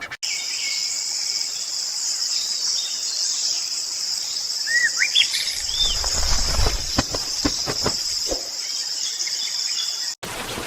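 A steady, high-pitched insect chorus in a natural soundscape. A few short bird chirps, sliding up and down, come about halfway through, and several low knocks follow a little later.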